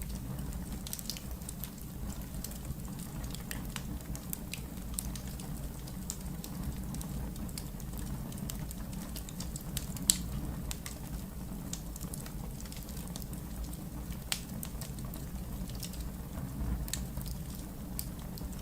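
Wood fire crackling in a fireplace: scattered pops and snaps over a steady low rumble of the flames, with one sharper pop about halfway through.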